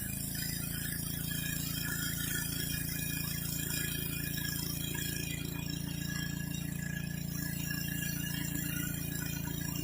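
Pressure washer's gas engine running steadily at constant speed.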